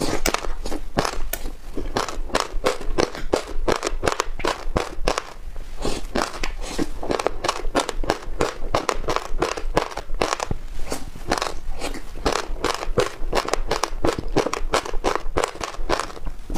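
Passionfruit seeds in yogurt being chewed: rapid crunching and crackling as the hard seeds break between the teeth, several sharp clicks a second.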